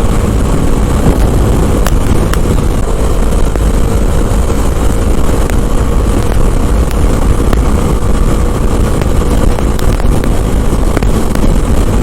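Wind rushing over the microphone of a motorcycle ridden at speed, with the engine running steadily underneath.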